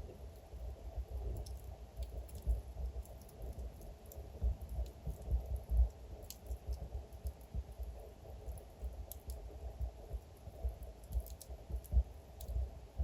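Wood fire crackling: irregular sharp pops and ticks scattered over a low steady rumble of burning logs.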